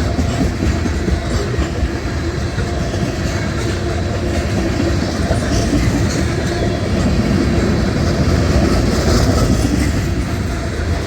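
Freight cars of a long mixed manifest train rolling past steadily, their steel wheels clicking over the rail joints.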